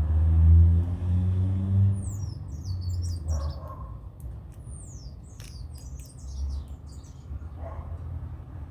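A motor vehicle's engine rumbles loudly, its pitch rising, through the first two seconds. Then birds call with a run of quick, high, falling chirps, with two shorter, lower calls around 3.5 and 7.7 seconds.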